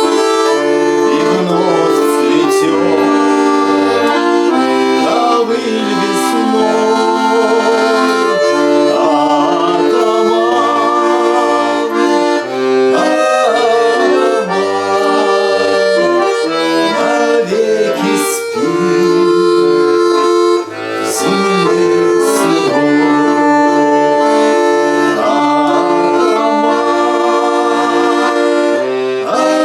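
Accordion playing an instrumental passage of a song: held chords with a melody moving over them, at a steady loud level.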